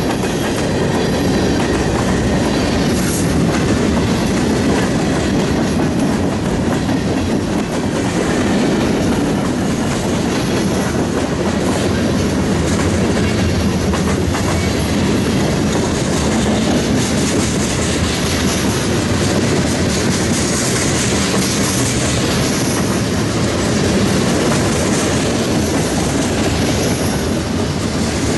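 Freight train cars (covered hoppers, a centerbeam flatcar and tank cars) rolling past close by: a steady, loud rumble and rattle of steel wheels on the rails.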